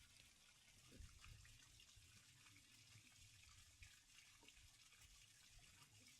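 Near silence: a faint, even hiss with a few soft ticks and low thumps.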